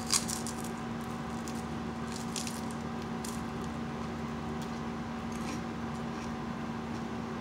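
Mouth-close chewing of a flaky, hard-to-chew water scorpion snack: a crunch just after the start, then a few faint scattered crunches and wet mouth sounds, over a steady low hum.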